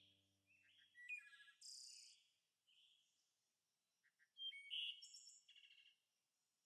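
Faint birds chirping and singing in short phrases, in two clusters: one about a second in and a louder one from about four and a half to six seconds in. The last of a soft, sustained music tone fades out in the first second.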